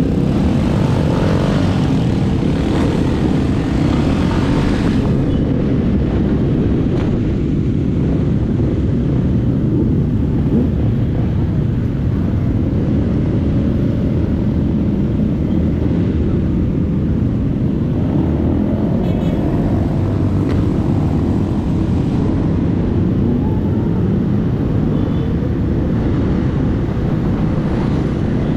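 Motorcycle riding on the road: a steady drone of engine and wind noise. An extra hiss rides over it for the first five seconds and then cuts off suddenly.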